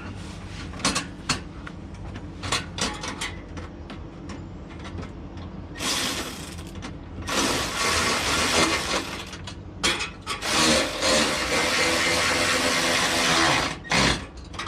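Hands working a plastic under-bumper panel and its push-in fasteners back into place: scattered clicks and knocks, then several long stretches of loud scraping and rustling.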